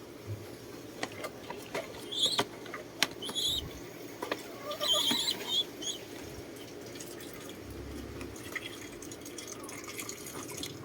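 Short high bird chirps in three or four brief bunches, over scattered light clicks and knocks.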